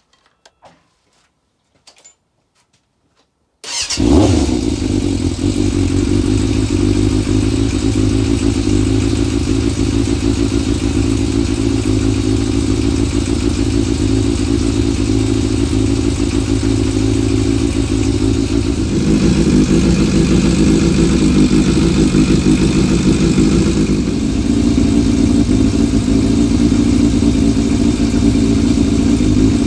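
Yamaha Fazer FZS600's 600cc inline-four engine starts up about four seconds in, after a few faint clicks, and keeps running steadily. Its tone shifts twice later on. It fires straight away on a new battery that has held its charge for a day.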